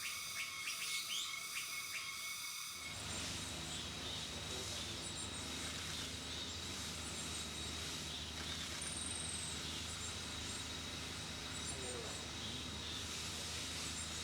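Faint, thin, high-pitched chirps of a Yellowish White-eye over forest ambience, with a steady high tone running under them. In the first three seconds, before a cut, come the short falling calls of an Olive-backed Flowerpecker.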